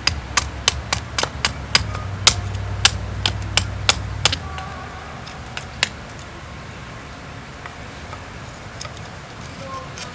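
Steel striker struck against flint in a quick run of sharp clicks, about three a second, stopping after about four seconds, with one more strike a little later.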